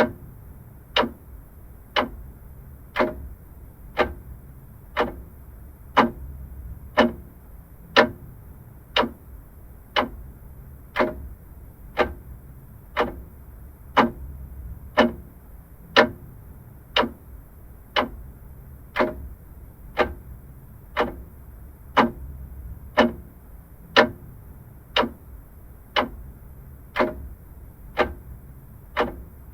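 Vintage mechanical clock ticking steadily, one crisp tick each second, over a faint low background hum.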